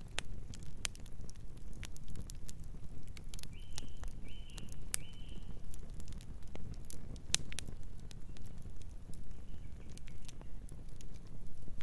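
Wood fire crackling: irregular sharp pops and snaps over a low steady rumble of burning. About four seconds in, a distant bird chirps three short times.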